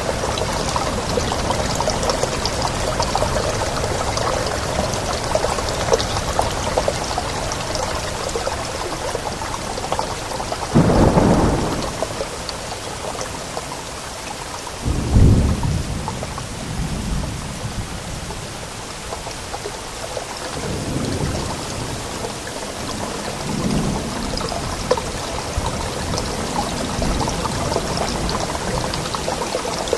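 Steady rain with rolls of thunder: two strong low rumbles about eleven and fifteen seconds in, and fainter ones after.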